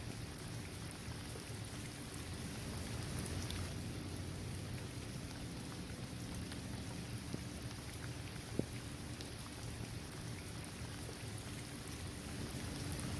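Steady rain falling on a paved basketball court, trees and grass, with a few louder single drops striking near the middle.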